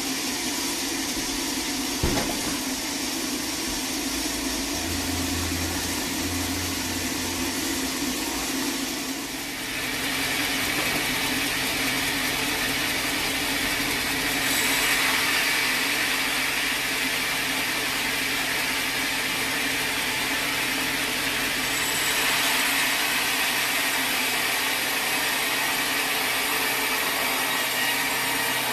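Sawmill machinery running with a steady hum and a single knock about two seconds in. About ten seconds in it changes to a sawmill saw cutting through a teak log: a steady, bright hiss.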